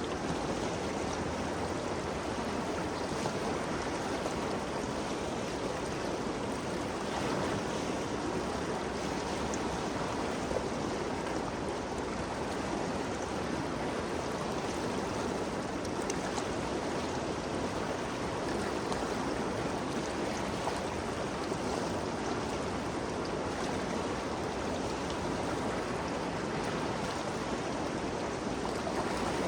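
Ganges River flowing: a steady, even rush of moving water with no breaks.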